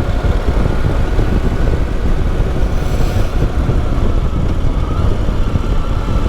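Motorcycle engine running steadily at low road speed, about 15 miles an hour, mixed with wind rumble on the microphone.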